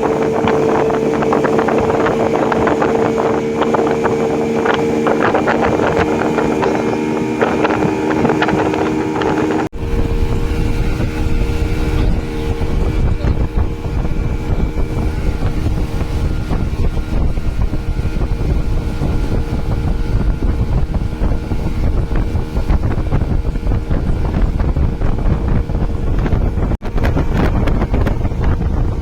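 Motorboat engine running at a steady pitch, with wind buffeting the microphone. About ten seconds in the sound breaks off abruptly, and after that a heavy low wind rumble dominates, with the engine fainter beneath it.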